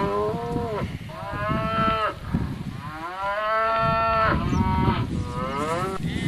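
Cattle mooing: about four long calls in a row, each rising and then falling in pitch.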